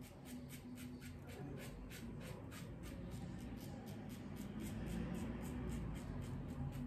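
Double-edge safety razor scraping through lathered stubble on the upper lip in quick short strokes, a crisp rasp about four times a second.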